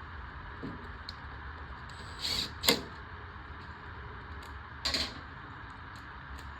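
Parts of a lawnmower being handled and fitted during reassembly: a few clicks and short rattles, the loudest a sharp click a little before three seconds in, over a steady low hum.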